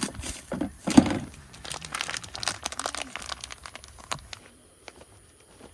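Close handling noises: packaging crinkling, with quick clicks and knocks of items being moved. The loudest knock comes about a second in, and the noises die away after about four seconds.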